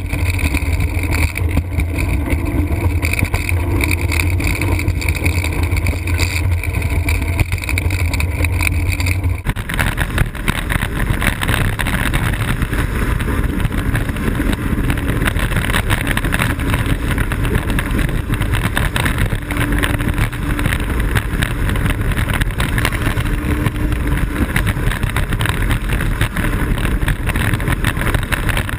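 Blokart land yacht sailing fast: a loud, steady rush of wind on the kart-mounted microphone and the rumble of the kart rolling over the pavement. The sound changes abruptly about nine seconds in, its low hum giving way to a broader rush.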